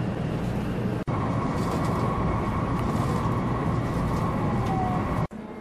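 Shinkansen train running, heard inside the passenger car: a steady low rumble with a faint steady whine, broken by two brief dropouts, about a second in and near the end.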